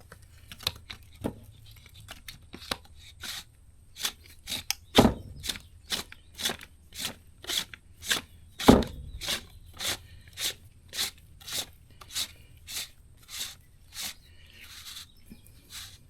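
Grease gun barrel being hand-threaded back onto the gun's head: a run of short rasping scrapes, about one and a half a second, one for each twist of the threads. Two heavier knocks come near 5 and 9 seconds in.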